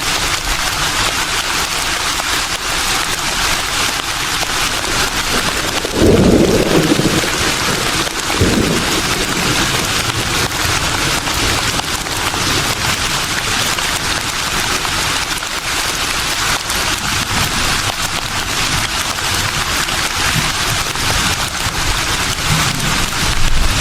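Wind rustling through leaves: a steady, dense hiss. A sudden low rumble comes in about six seconds in and lasts about two seconds, with a shorter one just after eight seconds.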